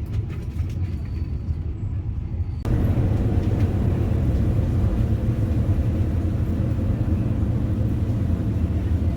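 Steady rumble of a passenger train running, heard from inside the carriage, with a few faint clicks. About two and a half seconds in it suddenly becomes louder and fuller, then stays steady.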